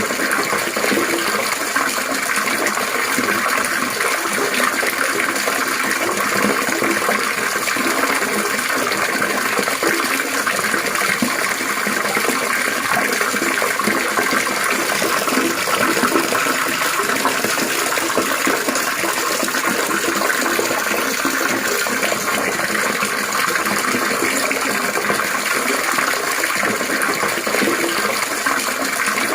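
Steady, continuous trickling and splashing water.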